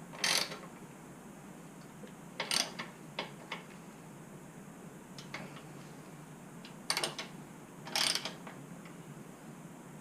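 Ratchet wrench clicking in several short runs with pauses between, tightening the bolts of a motorcycle's rear support.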